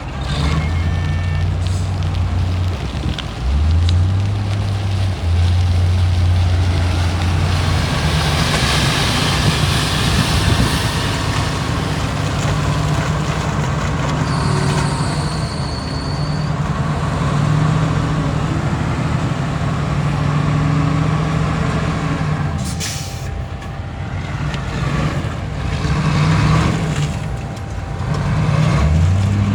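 Heavy diesel earthmoving machinery (bulldozer and dump trucks) running under load, the engine note climbing twice in the first few seconds. A short high squeal comes around the middle, and a sharp hiss of truck air brakes follows about three-quarters of the way through.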